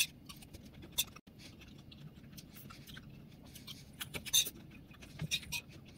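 A person chewing a mouthful of raw vegetable salad: short, irregular mouth clicks and crunches, loudest about four and a half seconds in.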